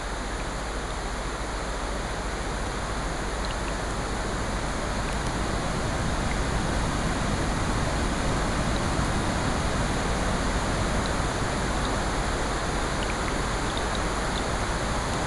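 Steady wash of rain mixed with ocean surf, growing a little louder about halfway through, with faint scattered crackles from a fireplace.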